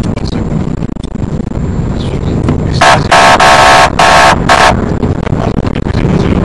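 Police car's siren-unit horn sounding four short, loud blasts about three seconds in, over steady engine and road rumble.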